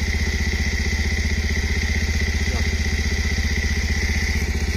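Motorcycle engine idling steadily with an even, rapid beat and no throttle, left running so the engine-flush additive circulates through the oil.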